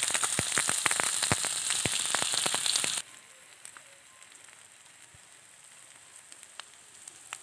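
Chicken keema sizzling in oil on a griddle, with dense crackling and popping. About three seconds in it drops suddenly to a much quieter sizzle with a few scattered pops.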